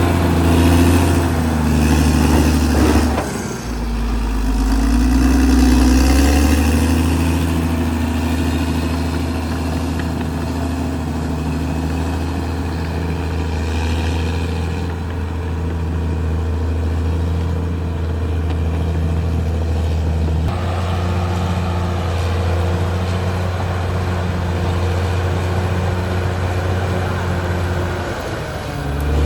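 Caterpillar D6R XL bulldozer's diesel engine running steadily, its low note shifting abruptly a few times.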